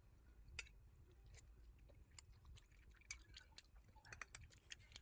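Near silence broken by scattered faint clicks and light taps, which come more often in the last couple of seconds.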